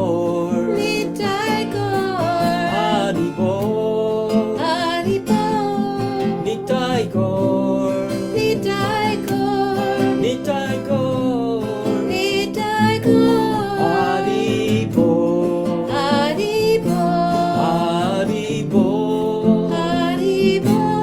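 Kirtan music: a voice sings a long, wavering devotional melody over steady instrumental accompaniment with plucked or strummed strings.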